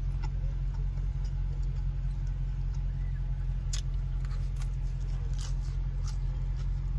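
Steady low hum of a car's engine idling, heard from inside the cabin, with a few short sharp clicks from eating in the middle.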